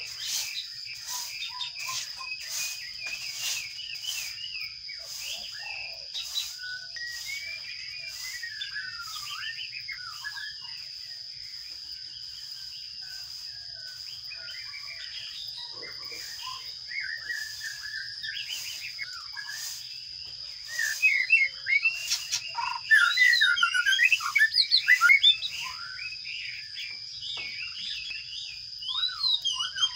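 Sparrows chirping at a nest box, with a loud burst of rapid, shrill chirping from about 21 to 26 seconds in, typical of nestlings begging as a parent arrives with food. A steady high-pitched whine runs underneath.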